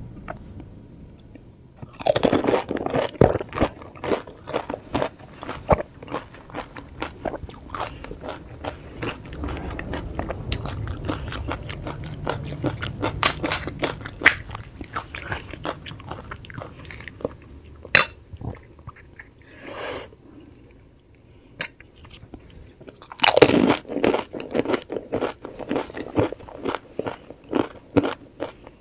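Close-miked eating of pani puri: crisp fried puris crunched and chewed in big bites, a dense run of crackling crunches. After a brief lull there is a fresh loud bite about two-thirds of the way through.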